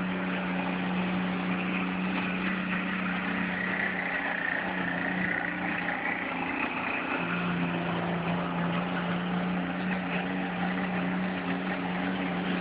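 New Holland 7810 pulling tractor's diesel engine running hard at a steady pitch, which steps slightly lower about seven seconds in.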